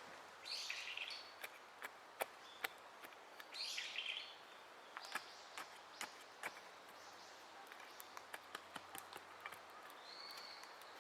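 Wild birds calling outdoors: two short harsh calls in the first four seconds and two brief high whistled notes near the end, with a scattering of sharp clicks and taps in between.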